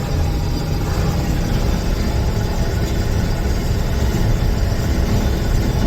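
John Deere combine running steadily with a low rumble while its unloading auger empties shelled corn from the grain tank into a gravity wagon.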